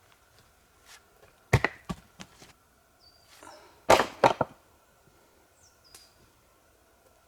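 Sharp knocks of work with wood, in two clusters. The first is a few quick strikes about one and a half seconds in. The second, a louder group of three, comes about four seconds in.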